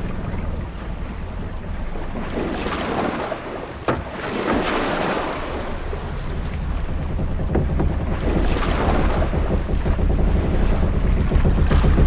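Ship-at-sea ambience: waves washing in swells over a steady low rumble of wind and sea, with a single sharp knock about four seconds in.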